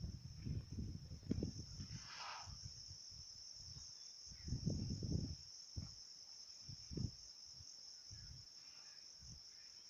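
Steady high-pitched insect chorus, with irregular low muffled bumps, the most prominent about four to five seconds in and again near seven seconds.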